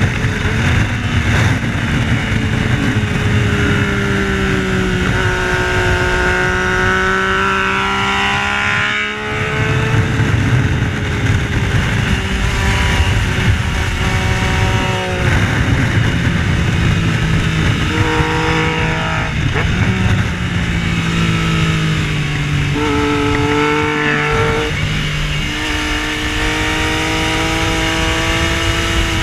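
Yamaha Tracer 900's inline-three engine under hard acceleration, the pitch climbing through each gear and breaking off at the shifts, with a brief drop off the throttle about nine seconds in.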